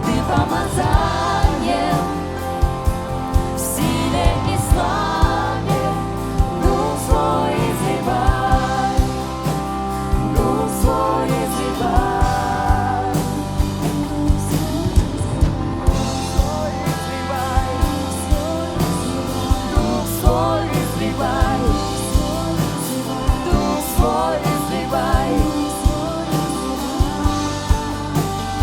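Contemporary Christian worship song played by a band, with a steady drum beat and singing over it.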